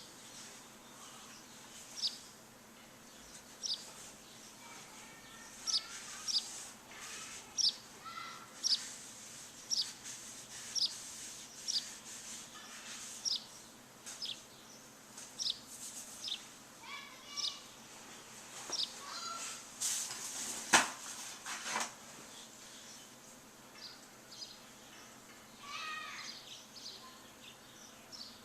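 Birds chirping: one bird repeats a short, high, downward-sliding note about once a second, with other birds giving lower warbling chirps over a faint steady background hiss. A few sharp clicks a little past the middle are the loudest sound.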